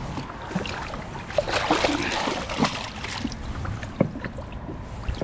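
Water splashing and sloshing at the side of a boat, with scattered knocks on the hull, busiest about two seconds in, as a large hybrid striped bass is eased back into the river for release. A low wind rumble runs underneath.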